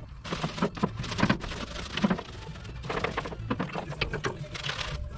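Hand scrubbing with a brush: irregular scratchy strokes and light taps in clusters, about one a second.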